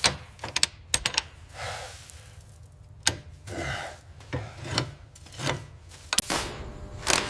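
Irregular sharp metallic clicks and clanks, with a few short scraping or rubbing swells between them, over a steady low hum: metal rigging and parts knocking as a heavy load is hoisted.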